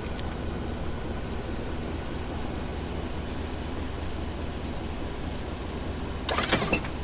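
Plow truck engine idling steadily, with a short, sharp rattle of knocks a little over six seconds in.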